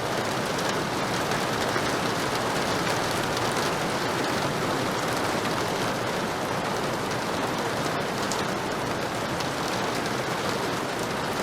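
Heavy rain falling steadily, a dense even hiss of rain on surfaces with no thunder.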